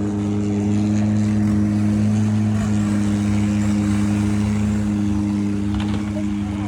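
Boat engine running steadily at an even speed, a loud, constant low drone.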